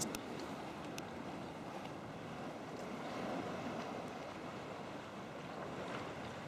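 Sea water sloshing and lapping against a kayak, with light wind on the microphone and a couple of small clicks near the start.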